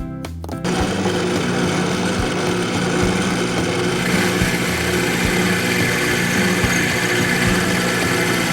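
An electric power tool motor starts running steadily just as background music stops, about half a second in. Its sound gets brighter about four seconds in, which may be the tool starting to cut or bore into the work.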